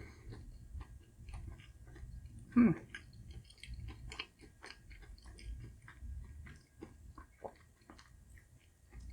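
Close-miked chewing of a pineapple custard bun with a crunchy sweet crust: wet mouth sounds and many small crunchy clicks, with one brief louder sound from the throat about two and a half seconds in.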